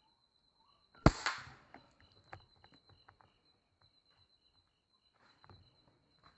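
Air rifle shot about a second in: one sharp crack with a short hissing tail, followed by scattered small clicks and taps. Under it an insect keeps up a steady high thin whine with a faint, regular pulsing chirp just below it.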